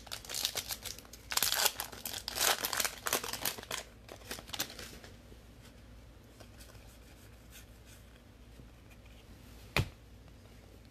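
Trading-card pack wrapper being torn open and crinkled, a dense run of tearing and rustling lasting about five seconds. After that it goes quiet, with one sharp click near the end.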